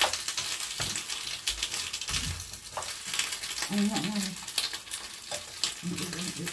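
Garlic scapes sizzling and crackling in a hot frying pan on a portable gas burner, stirred with a wooden spatula.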